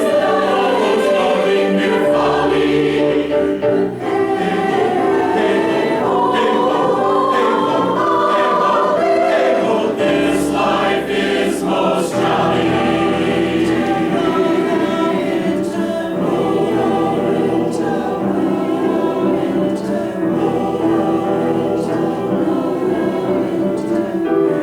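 Choir singing held chords with piano accompaniment.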